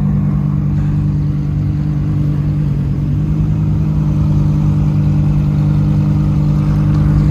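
Car engine running at a steady speed as a low, even drone while driving, growing a little louder near the end.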